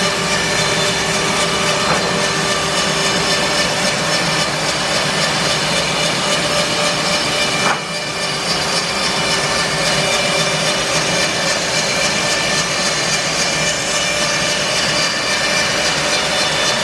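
Bandsaw mill running and sawing through an English larch log, a loud steady machine noise with a brief dip about halfway through.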